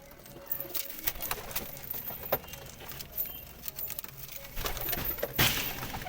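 Domestic pigeons cooing, with many scattered sharp clicks and a louder burst of noise about five and a half seconds in.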